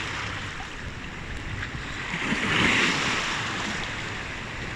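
Sea waves washing onto a shore, one wave swelling up and receding about halfway through, with wind buffeting the microphone.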